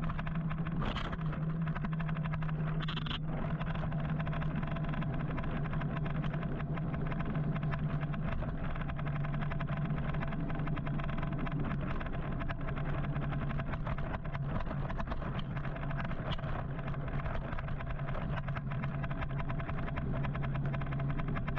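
Steady road and traffic noise heard while riding an electric motorcycle through city traffic: a constant low hum over an even rush of noise. Two short higher-pitched sounds stand out about one and three seconds in.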